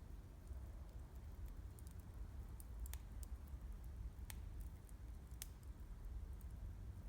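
Wood campfire crackling faintly, with a few sharp, scattered pops over a low steady rumble.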